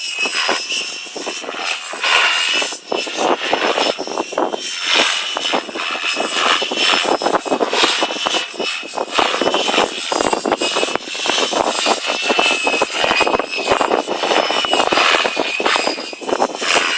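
GAUI X5 electric RC helicopter flying: its motor and rotor blades give a steady high whine over a rushing hum, rising and falling in loudness as it manoeuvres.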